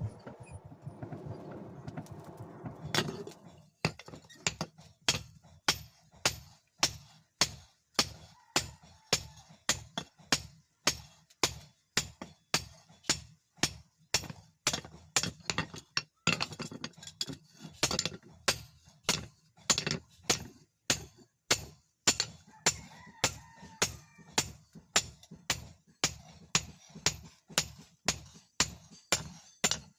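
Hand hammer striking hot leaf-spring steel on an anvil in a steady forging rhythm, about two blows a second, each with a short metallic ring. The first few seconds hold a steady rushing noise before the hammering starts.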